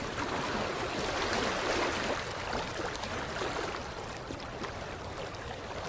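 Creek water lapping against the shoreline: a continuous splashing wash that swells a second or two in and eases slightly after.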